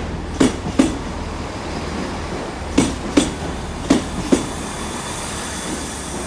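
Slow-moving train's wheels clicking over a rail joint in pairs, two axles of a bogie about half a second apart, a pair every one to two seconds, over a steady low engine hum.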